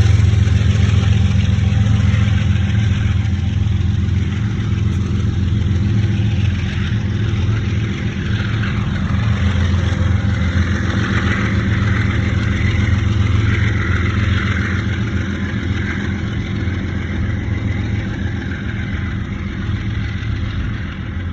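Diesel locomotive engine running with a steady low drone, over a hiss of train wheels on the rails that swells about halfway through and eases off toward the end.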